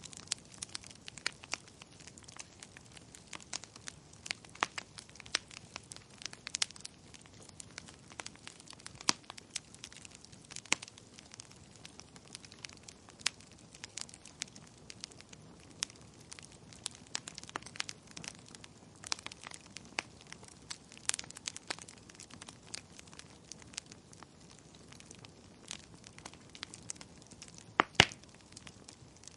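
Wood fire in a fireplace crackling: irregular sharp pops and snaps over a soft steady hiss, with one louder pop near the end.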